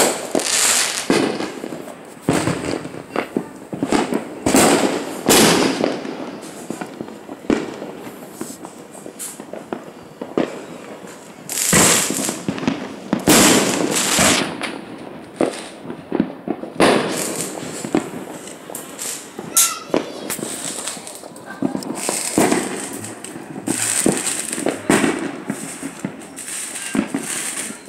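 Fireworks going off: a string of sharp bangs with crackling and hissing between them.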